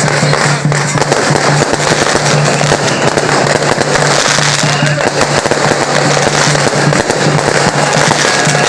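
Strings of firecrackers crackling densely and without a break, with music playing underneath.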